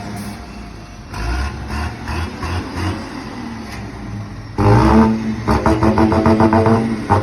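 A 270 hp MAN truck's button-switched 'singing' exhaust: a lower, rough exhaust rumble for several seconds, then, about four and a half seconds in, a sudden loud droning, horn-like tone that pulses quickly and evenly.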